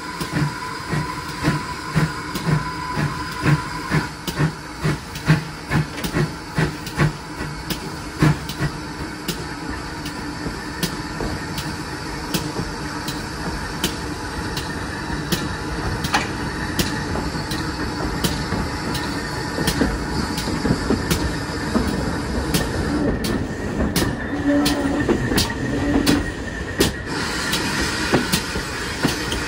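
Steam train running on the rails. A regular low beat comes about twice a second for the first eight seconds. After that it settles into a steady rumble, with scattered sharp clicks of the wheels.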